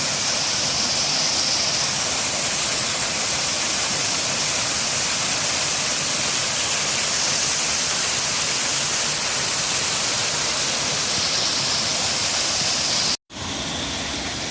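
Steady rush of a waterfall and cascading brook water. Near the end it cuts out for an instant and comes back somewhat quieter.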